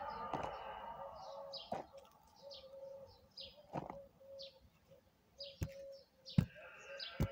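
A small bird chirping over and over in short high chirps, two or three a second, with a few sharp knocks or taps among them.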